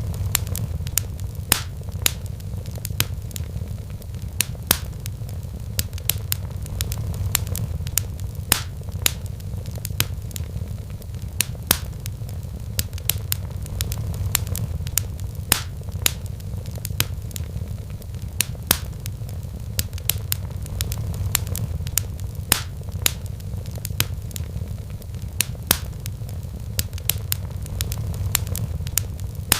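Wood fire crackling in a fireplace: sharp pops and snaps several times a second over a steady low rumble that swells and eases every few seconds.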